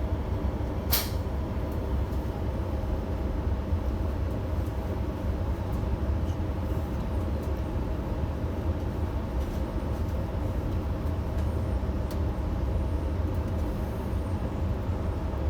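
Steady low rumble of a passenger train heard from inside the carriage, with a single sharp click about a second in.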